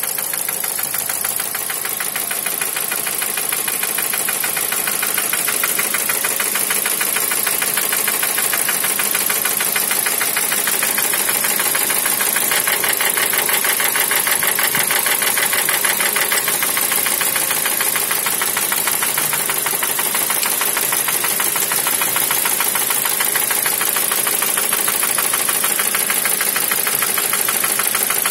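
Car engine running with a fast, even, steady knock.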